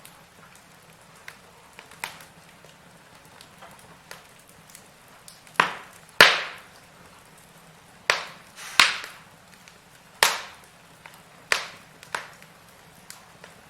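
Firewood burning in a fireplace, crackling with scattered sharp pops over a faint steady hiss; the pops are light at first, and from about the middle on there is a loud one roughly every second.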